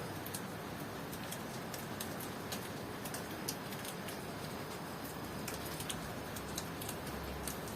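Steady rainfall hiss with irregular sharp drip ticks from drops striking nearby surfaces, several a second.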